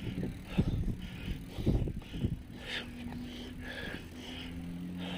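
Riding noise from a bicycle on the road: irregular low bumps and wind on the microphone. About two and a half seconds in, a steady hum joins.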